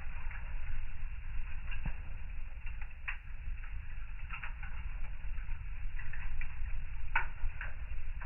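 Wood fire crackling in a fireplace: scattered pops and snaps, the sharpest about three and seven seconds in, over a steady low rumble.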